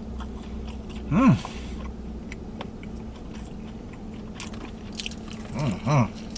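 A person chewing fried chicken close to the microphone, with small wet clicks and crunches, and short hummed 'mm' sounds of enjoyment about a second in and twice near the end. A steady low hum runs underneath.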